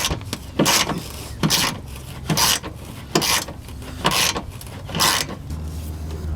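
Hand ratchet being worked back and forth in short rasping strokes, about one a second, as fasteners are turned out; a low steady hum comes in near the end.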